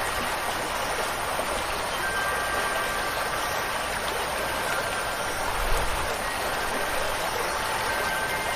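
Steady rushing water, an even hiss, with faint wind chime tones ringing out a few times and fading.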